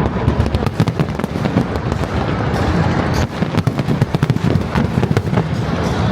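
Fireworks display: a rapid, continuous barrage of bangs and crackling bursts over a steady low rumble.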